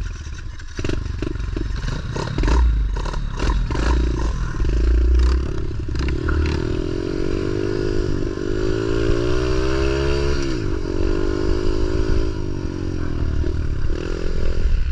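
Pit bike engine running, with rapid clattering knocks in the first few seconds, then revving up from about 8 seconds in and dropping off sharply near 11 seconds.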